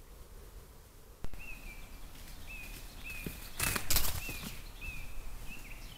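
A sharp click a little over a second in, then a bird repeating a short, high, downward-slurred call about every two-thirds of a second. A loud rustling burst lasting about half a second comes midway through.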